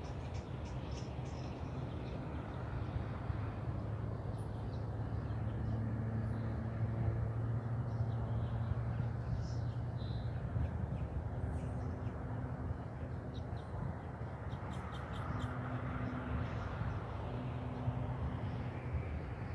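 Open-air ambience: a steady low rumble with faint, brief bird calls scattered through it.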